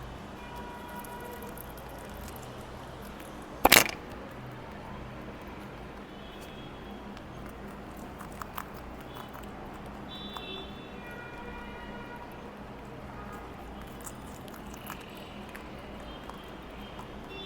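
Rabbits chewing and nibbling food, soft crunching clicks scattered throughout, with one loud sharp knock about four seconds in.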